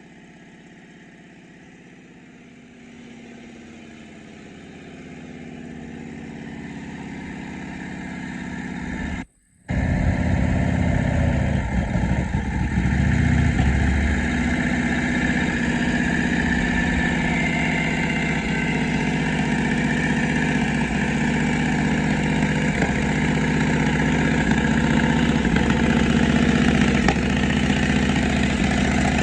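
1963 Rikuo 750cc side-valve V-twin motorcycle engine running at idle after long storage: softer at first and slowly growing louder, then after a brief cut about nine seconds in, much louder and running steadily, a little uneven for a few seconds after the cut.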